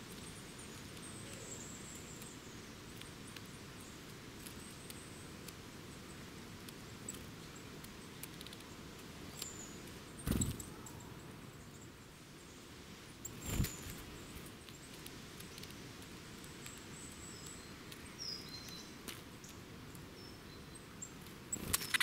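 Small woodland birds foraging at close range: scattered faint high chirps and calls, and two loud brief wing flutters close to the microphone, one about halfway through and another about three seconds later.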